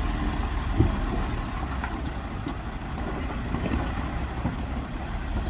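Heavy truck or bus engine running low and steady, with a sharp knock about a second in and a few fainter knocks.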